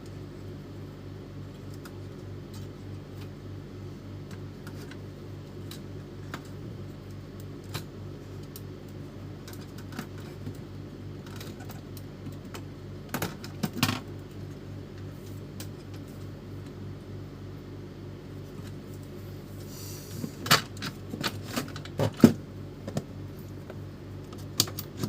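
Scattered clicks and light clattering of small parts being handled, louder in a cluster near the end, over a steady low hum.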